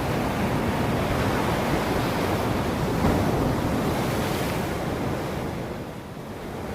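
Ocean waves washing onto a shore in a continuous rush. One wave swells and breaks near the middle and then recedes, leaving a short lull before the next builds.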